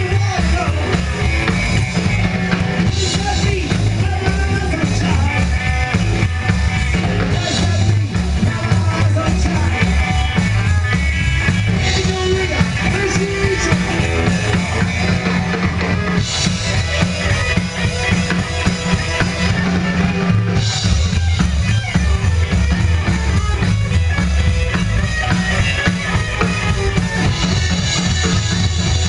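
Rockabilly band playing live, with a steady, driving drum kit and bass under the music.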